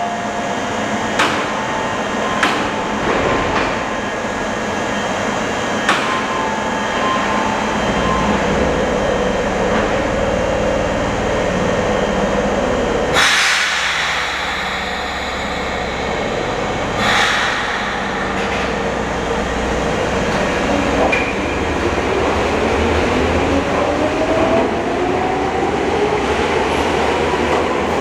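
Electric train in a station with a low running rumble, two loud bursts of air hiss and a few sharp clicks, then a motor whine rising steadily in pitch as it pulls away.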